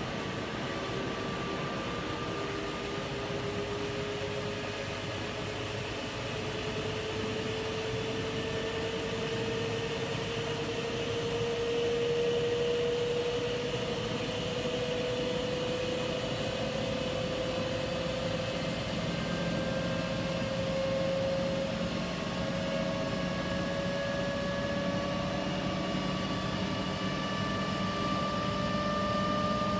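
Washing machine running, its motor whine rising slowly and steadily in pitch over a constant mechanical hum as the drum speeds up.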